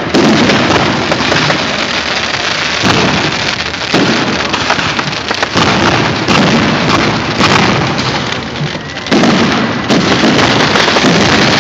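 Fireworks going off in a dense barrage of crackling, with heavier bursts breaking in every few seconds.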